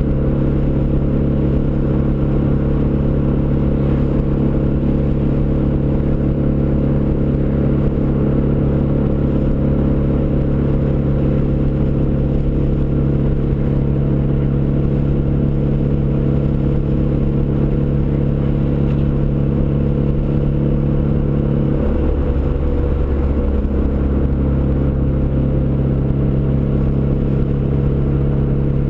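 Turbocharged Ford Escort ZX2's 2.0-litre four-cylinder engine idling steadily through a custom 3-inch side-exit exhaust. The idle wavers briefly about three-quarters of the way through, then settles again.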